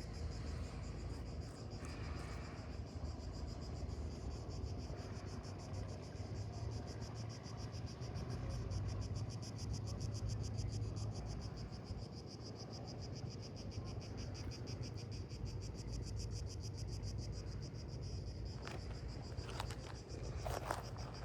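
Cicadas in the pines, a steady fast pulsing buzz, over a low rumble of wind and sea. A few footsteps come in near the end.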